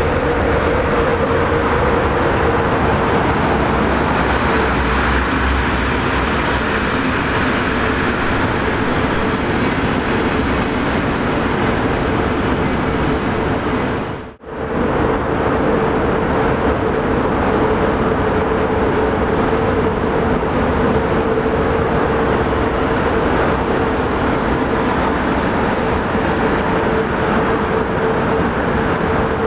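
A locomotive-hauled passenger train running past: a steady rumble of wheels on rails with a steady hum. The sound cuts out for a moment about halfway through, then similar steady train noise carries on.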